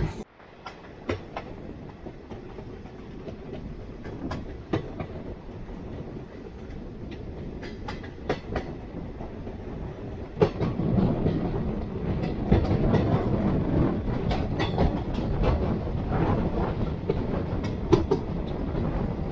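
Indian Railways passenger train running along the track, its wheels clicking over the rail joints. The running noise gets louder about halfway through.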